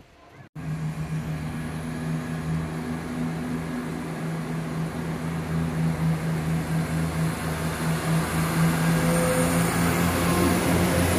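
A passenger train running with a steady, even-pitched engine hum that starts abruptly about half a second in and grows gradually louder.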